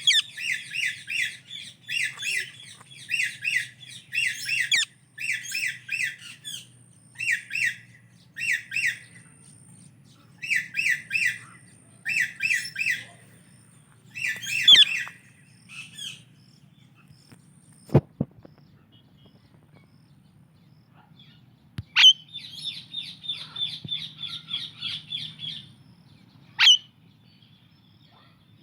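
Pet Psittacula parakeets calling: bursts of rapid, repeated chattering notes for about the first fifteen seconds, then a lull broken by a single knock, then two sharp squawks with quick chatter between them.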